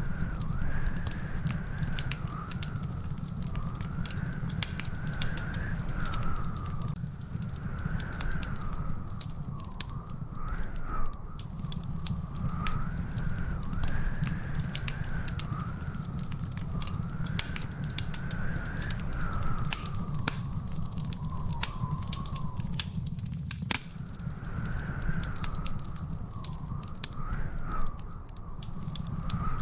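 Wood fire in a fireplace crackling and popping steadily over a low rumble of flame, with a continuous high wavering whistle-like tone running alongside that breaks off briefly twice.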